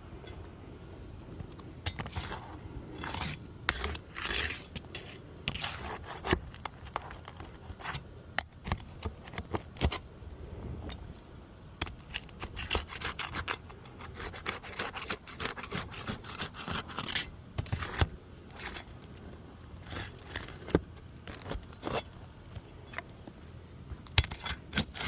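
Irregular scraping strokes of a hand tool on roofing material, with sharp clicks and knocks between them.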